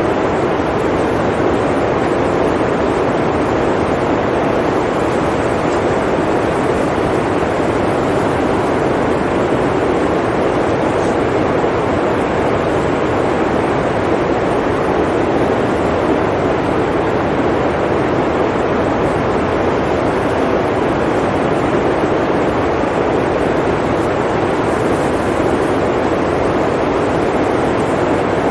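Blizzard wind blowing steadily: a dense, even rush with no gusts, breaks or separate events.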